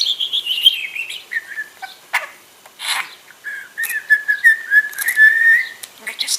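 Clear whistling: one note glides down over the first second, then after a couple of short clicks a wavering whistle holds for about two seconds.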